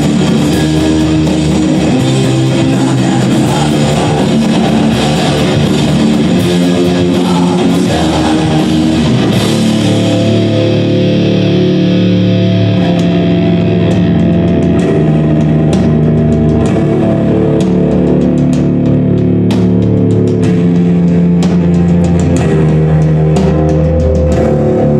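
Band playing loud rock live, with guitar, bass and drums. About ten seconds in the high wash thins out and sharp separate drum hits stand out over the held guitar and bass notes.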